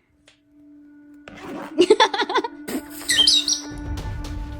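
Pet parrot calling in a series of short, pitched chirps and squawks, with high squeaky calls about two seconds in, over background music.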